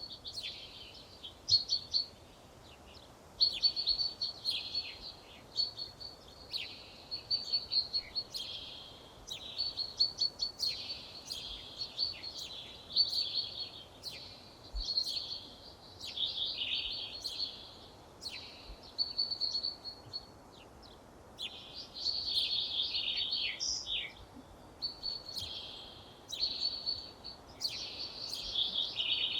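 Songbirds singing: short, rapid, trilled phrases high in pitch, repeated over and over with brief pauses between them.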